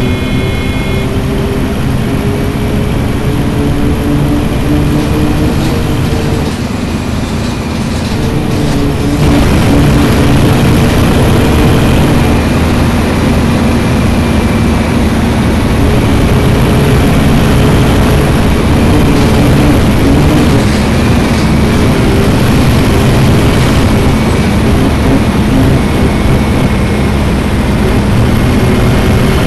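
Scania city bus engine running as the bus drives, its note rising over the first few seconds, easing off briefly, then pulling louder again from about nine seconds in and holding steady.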